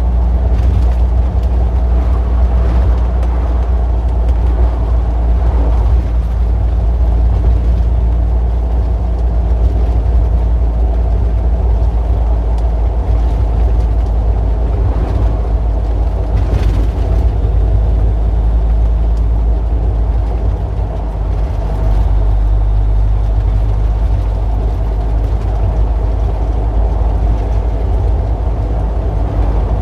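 Street traffic dominated by a steady, low engine drone from vehicles running close by. A short hiss cuts across the drone about halfway through.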